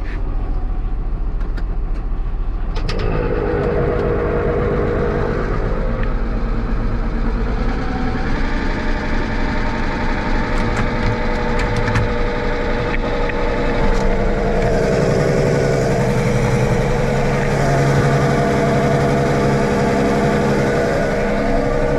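Tractor engine running steadily. Its note changes a few seconds in and picks up, louder, a little past halfway.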